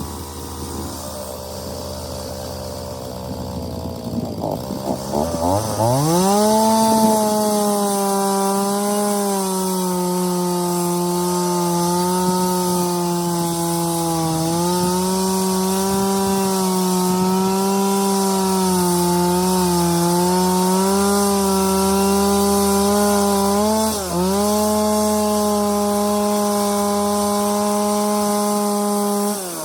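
Echo CS-4400 two-stroke chainsaw revving up sharply from a low speed about five seconds in, then held at a high steady speed as it cuts wood, its pitch sagging slightly under load. It dips suddenly once, about three-quarters of the way through, and drops back off the throttle at the very end.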